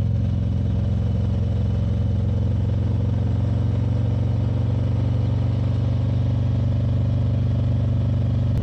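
Motorcycle engine running steadily at an even pitch while riding, with road and wind noise beneath it.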